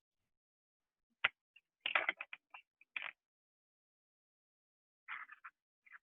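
A pen marker drawing on a paper plate: a sharp click a little over a second in, then two clusters of short, quick scratchy strokes.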